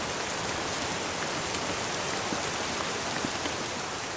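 Steady rain falling, an even hiss with scattered drop ticks, beginning to fade out near the end.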